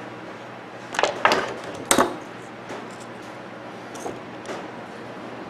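Sharp clinks and knocks of small metal fan parts being handled and set down: three in the first two seconds, then a couple of faint ticks.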